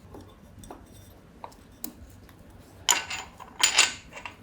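Small metal engine parts and hand tools clinking and tapping during engine reassembly: a few faint clicks, then two short bursts of sharp clatter with a light metallic ring near the end.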